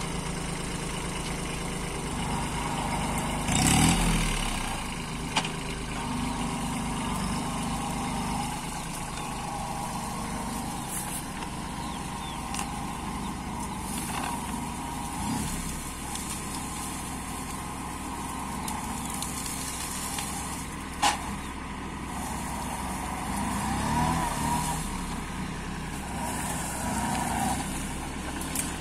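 Kubota 21 hp compact tractor's engine running steadily. It swells louder briefly about four seconds in, and a sharp click comes about two-thirds of the way through.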